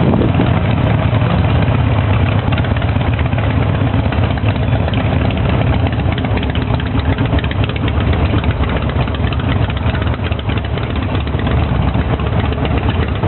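Harley-Davidson V-twin motorcycle engine running steadily with a low, even rumble.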